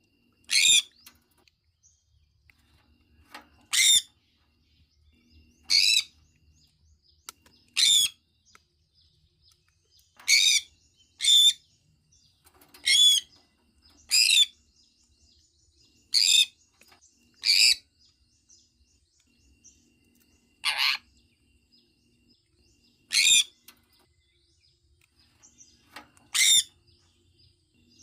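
Sun conure calling: about thirteen short, high-pitched calls, each under half a second, repeated every one to three seconds.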